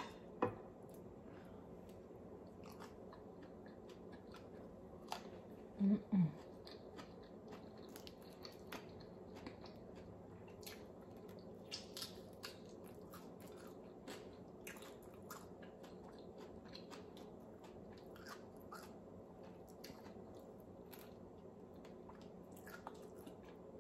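Faint close-up mouth sounds of someone eating fried fish by hand: chewing, with small scattered clicks of lips and fingers at the mouth. A short hum of the voice comes about six seconds in.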